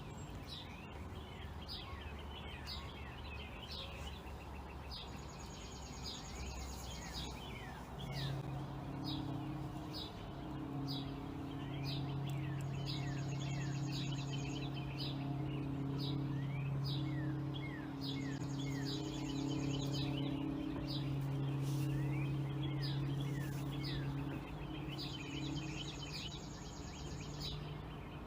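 A low, steady droning hum with a second, higher tone above it sets in about eight seconds in and holds with short breaks until near the end. It is the kind of sound reported as a 'strange sound in the sky'. Birds chirp throughout.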